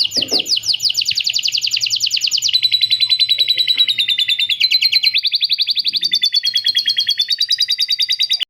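Songbird song from a masteran (bird-tutoring) recording: a continuous, very fast trill of rapidly repeated high notes, more than ten a second, switching to a new note pattern several times. It cuts off suddenly near the end.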